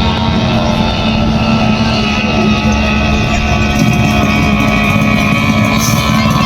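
Racing powerboat engine running steadily at a warm-up.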